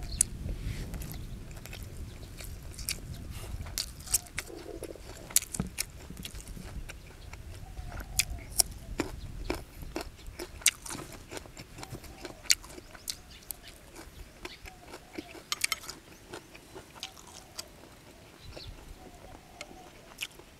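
A person chewing and biting food close to the microphone: many sharp, irregular wet clicks and crunches. A low background rumble fades out in the first few seconds.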